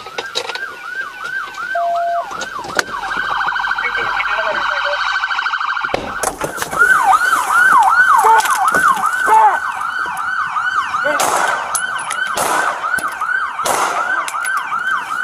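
Police car siren in yelp mode, a fast chain of falling cries a few times a second, loud throughout; it cuts off suddenly at the end.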